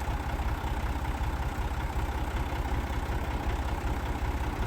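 Massey Ferguson tractor engine idling with a steady low throb.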